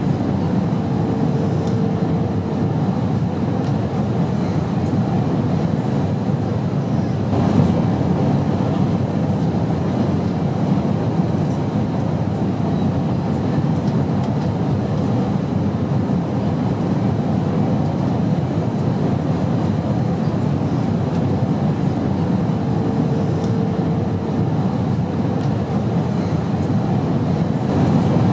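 Steady low rumble of an airliner cabin in flight. A faint tone shows briefly twice, and a single soft knock comes about seven and a half seconds in.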